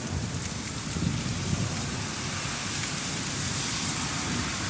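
Heavy rain falling steadily and pattering on surfaces in a thunderstorm.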